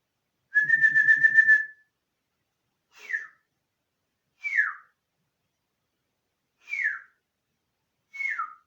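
Whistling: one held, wavering note, then four short whistles sliding downward, spaced a second or two apart.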